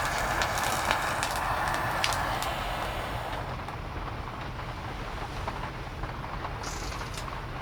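Heavy rain: a steady hiss with scattered drop ticks over a low rumble. The hiss is louder for the first couple of seconds, then eases.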